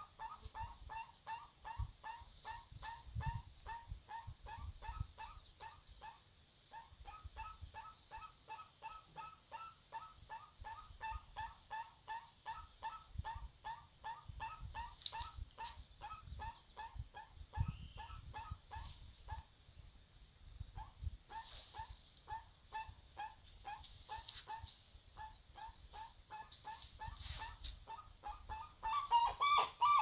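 Crested guan calling: a long, even series of short honking notes, about four a second, that grows louder and more crowded in the last second.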